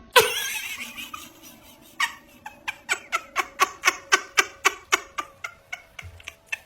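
A sudden noisy burst fading over about a second, then a person laughing in a quick run of about fifteen short 'ha' pulses.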